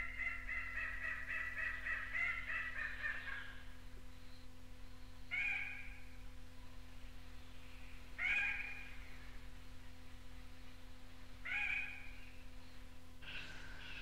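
Red-necked rail calling: a rapid run of repeated harsh notes for about three and a half seconds, then three single calls about three seconds apart. A steady low hum from the tape sits underneath. Near the end the background changes and a different, sharper call begins.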